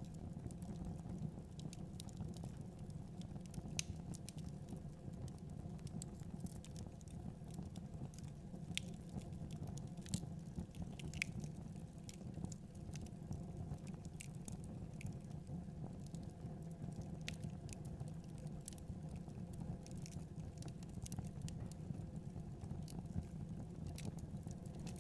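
Wood fire crackling in a fireplace: a steady low rumble of the flames with scattered sharp pops and snaps at irregular intervals.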